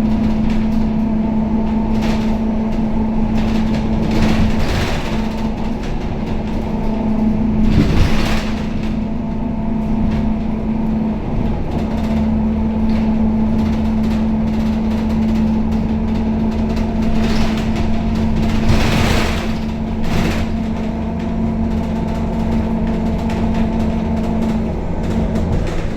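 Scania K270UB city bus running in service: a steady mechanical drone with a constant humming tone, a deeper rumble joining about halfway through, and two short louder noise surges, about eight and nineteen seconds in.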